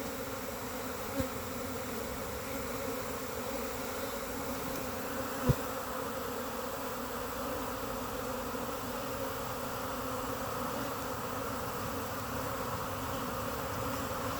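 Steady buzzing hum of a honey bee swarm at the entrance of a hive body, with two short sharp clicks, a faint one about a second in and a louder one about five and a half seconds in.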